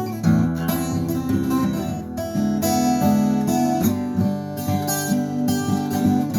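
Acoustic guitar strumming chords in an instrumental passage of a song, with no vocals.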